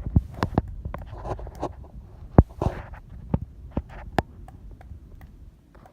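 Pileated woodpecker pecking at wood: a dozen or so sharp knocks at irregular spacing, the loudest about two and a half seconds in, thinning out toward the end, over a low rumble.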